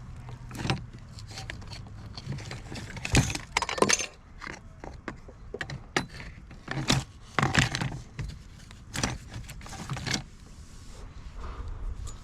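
Rummaging through a pile of junk: irregular clinks, clatters and knocks as items are picked up and dropped. The loudest knocks come about three to four seconds in and again near the middle.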